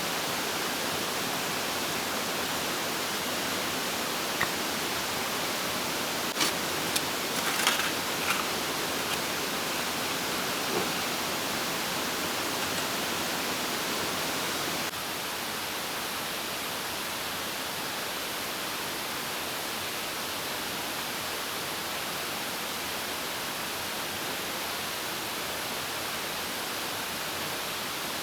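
Steady rushing of a mountain stream flowing over rocks, with a few light knocks a third of the way in.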